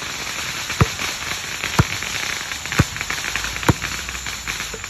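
Fireworks going off at a distance: four sharp bangs about a second apart, over a steady hiss.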